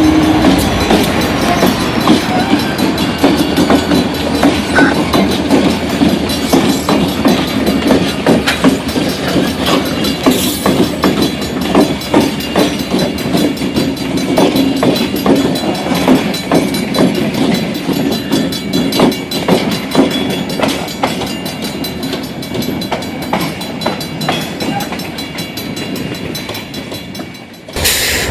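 Freight train rolling past, its wheels clicking steadily over rail joints above a continuous rumble. The sound breaks off abruptly near the end.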